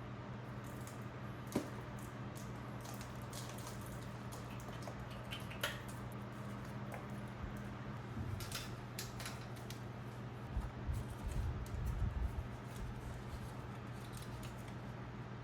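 Scattered small clicks and light knocks of tools and parts being handled, with a stretch of low, dull knocking about two-thirds of the way through, over a steady low hum.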